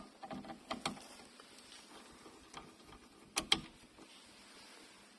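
Clicks and light knocks of sunroof mechanism parts being fastened back into place: a quick cluster in the first second, then two sharp clicks about three and a half seconds in.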